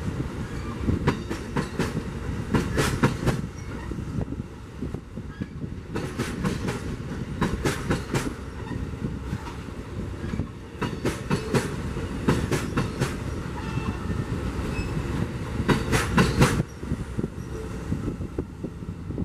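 A train rolling past, a steady rumble broken by groups of sharp wheel clicks over rail joints every few seconds.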